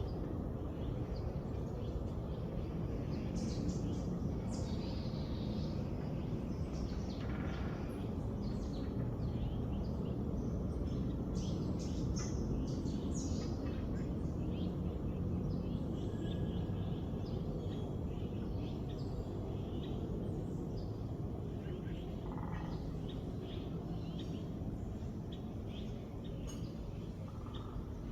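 Several small songbirds chirping and calling in short, scattered notes, over a steady low background rumble.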